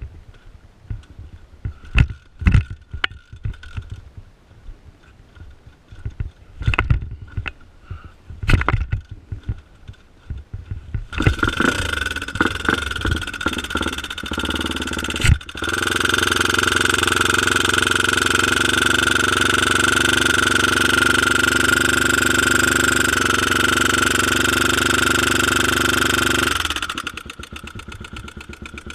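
Two-stroke dirt bike engine: a few scattered knocks, then the engine catches about eleven seconds in, sputters unevenly, and settles into a loud, steady run held at constant revs before dropping off sharply near the end. The engine is one that had been running badly after lying upside down, suspected of loading up on oil in the crankcase.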